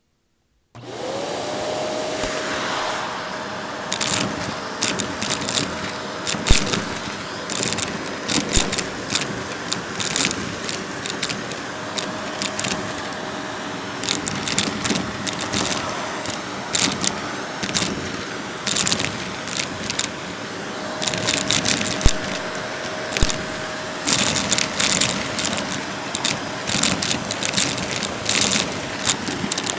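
Vacuum cleaner switched on just under a second in, its motor spinning up to a steady hum with a rushing airflow. From about four seconds in, cut-up puzzle pieces rattle and click in irregular clusters as they are sucked in.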